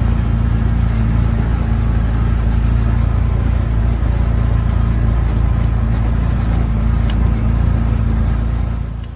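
Can-Am side-by-side utility vehicle's engine running steadily at a constant pitch, then cutting out near the end.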